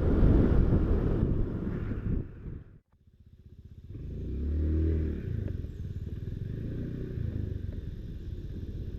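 Motorcycle engine running on the road with low rumble. The sound drops out briefly about three seconds in, then the engine note swells and falls away about a second later.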